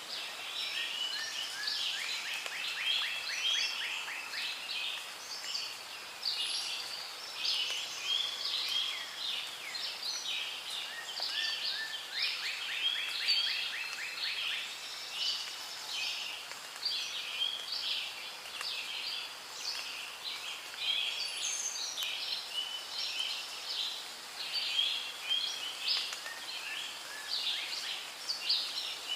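Rainforest ambience: many birds calling and chirping over one another above a steady hiss. A rapid trill comes twice, a couple of seconds in and again about twelve seconds in.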